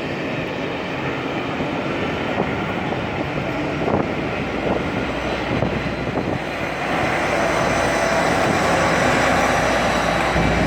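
A train approaching: a steady rumble that grows louder about two-thirds of the way in, with faint steady high-pitched tones over it.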